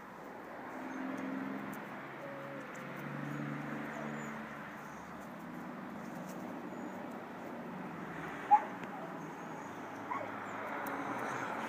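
A dog whimpering, with one short, loud yelp about eight and a half seconds in and a softer one about a second and a half later.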